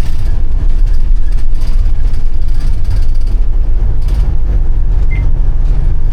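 A bus in motion, heard from inside: a steady, loud low rumble of engine and road noise. A short high tone sounds briefly about five seconds in.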